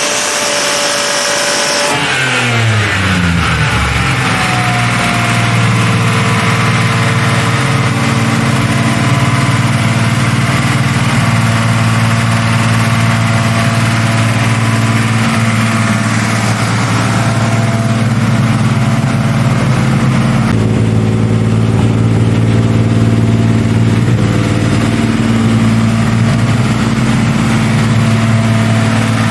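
BMW six-cylinder rally car engine, fitted with new hydraulic lifters and firing on all six cylinders again. It is held at high revs, drops sharply to idle about two seconds in, then idles steadily.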